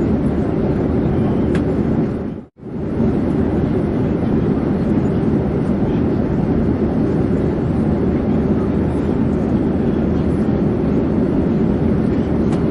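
Steady, deep rushing drone of an airplane in flight. It cuts out abruptly for a fraction of a second about two and a half seconds in, then resumes unchanged.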